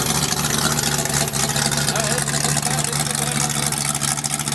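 Oldsmobile 350 V8 running steadily at idle, newly installed and running.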